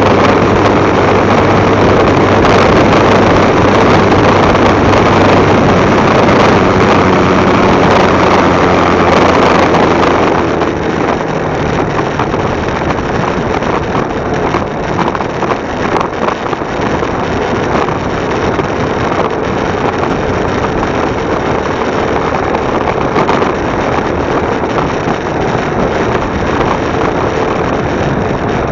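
Motorcycle engine running under way, with wind rushing over the microphone. About ten seconds in the engine note and the wind drop and it runs on quieter.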